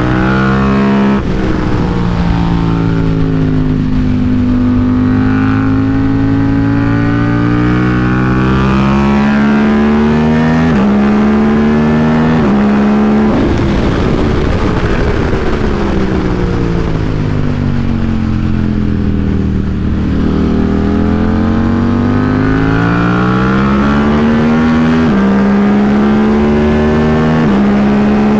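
KTM RC8C race bike's engine at speed on track. Its pitch climbs under throttle and jumps at each quick gear change, drops steadily through the middle as the bike slows, then climbs again with further shifts near the end.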